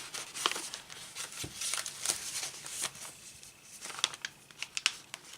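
Paper and card stock being handled: light rustling with scattered soft taps and flicks as journal pages, an envelope and a journal card are moved and unfolded.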